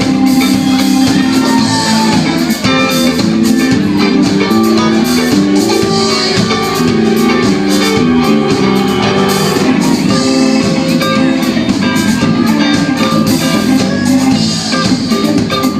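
Live rock band playing: guitar with drum kit.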